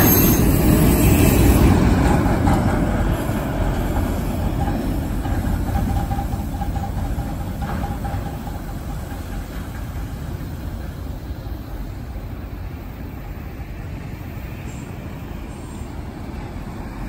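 Rear cars of a loaded CSX autorack freight train rumbling past and away, the sound fading steadily over about ten seconds to a low distant rumble. A faint thin squeal from the wheels on the curve runs for a few seconds near the middle.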